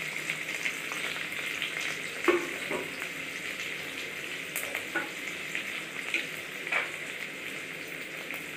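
Freshly added chopped onion, green chilli and cumin seeds sizzling in hot mustard oil in a kadai: a steady frying hiss broken by a few louder crackles.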